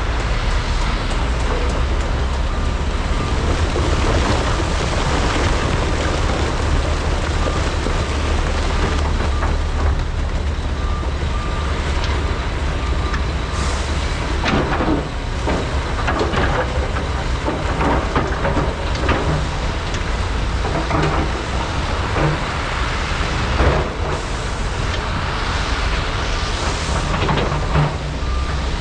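Large diesel hydraulic excavators running steadily while loading trucks at a mine, with a deep engine drone throughout. From about halfway, clanks and rattles of rock and dirt in the buckets and truck beds come in over it.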